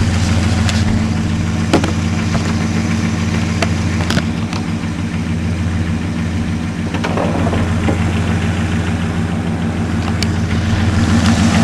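Pickup truck engine idling steadily, with a few light clicks of handling about 2, 4 and 10 seconds in.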